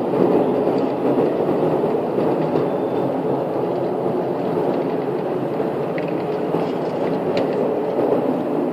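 Steady low rumbling drone with no clear pitch, the unexplained sound heard from the sky.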